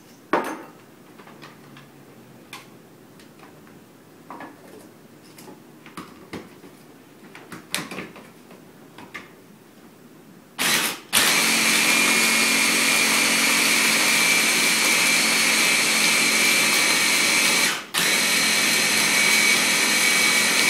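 A few light clicks and knocks as extra ice goes into a blender, then the blender starts with a short burst and runs loud and steady with a high whine, blending ice, almond milk and protein powder into a thick blizzard mix. It stops for a moment about seven seconds after starting, then runs on.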